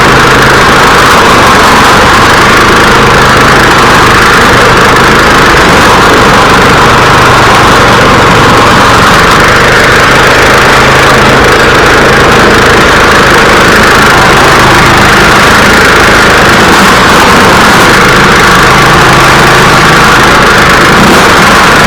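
Snow thrower's small gasoline engine running steadily and loudly at a constant speed.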